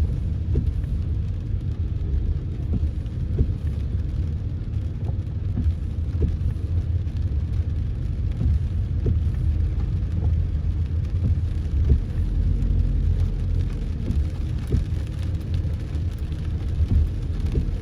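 Car driving through heavy rain: a steady low rumble of engine and road noise, with scattered light taps of rain on the car.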